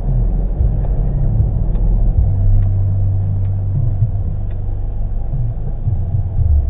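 A car's engine and road noise as it drives: a steady low rumble, with the engine note shifting a little now and then.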